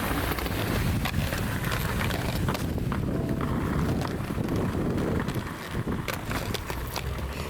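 Wheels rolling over street pavement, a steady rumble with scattered clicks and knocks.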